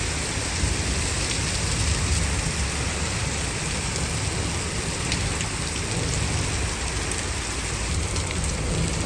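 Heavy rain pouring down in a thunderstorm, a steady, even downpour.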